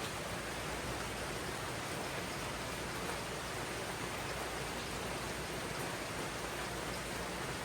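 Steady rain falling in a tropical rainforest: an even, unbroken hiss of many drops.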